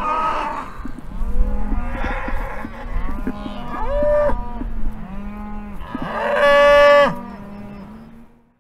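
A herd of cattle mooing, several calls overlapping one another over a low held moo. The loudest, a long high moo, comes about six and a half seconds in, then the sound fades out.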